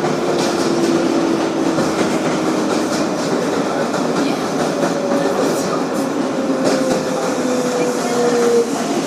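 Kawasaki R-188 subway car with Bombardier MITRAC propulsion, heard from inside: steady running and rail noise. A faint motor whine slowly falls in pitch, and a few clicks come near the middle.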